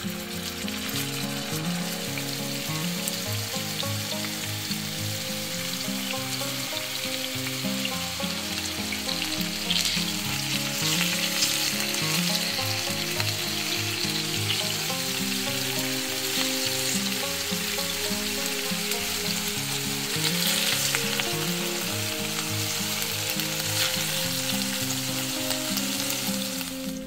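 Minced-meat patties sizzling as they fry in hot vegetable oil in a non-stick pan, the hiss swelling in stretches as spatulas press and turn them. Quiet background music runs underneath.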